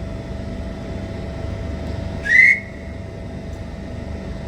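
One short rising whistle about two seconds in, over the steady rumble and hum of trains at a railway station.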